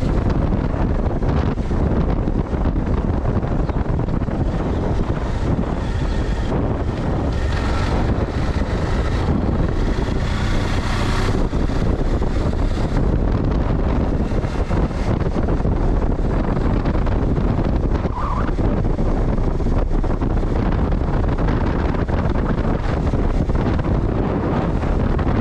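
Steady, loud wind buffeting on an action camera's microphone during a ride, the rumble of a moving vehicle blended into it.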